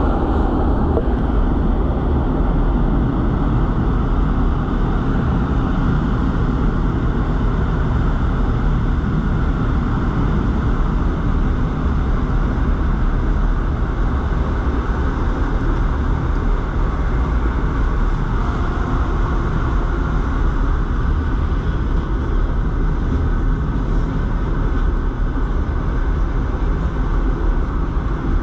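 Suburban train running at speed, heard from inside the carriage: a steady, unbroken rumble of wheels and running gear on the track.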